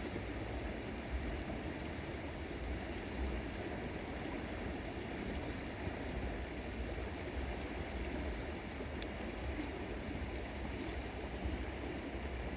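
River water flowing steadily, with a low rumble underneath and a few faint clicks.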